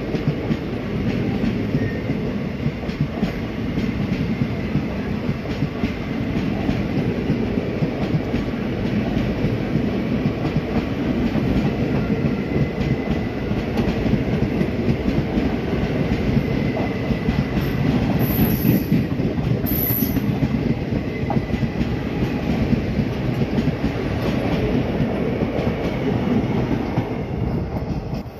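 Passenger coaches of an express train rushing past a platform at speed: a steady rumble and clatter of wheels on the rails. The sound falls away at the end as the last coach passes.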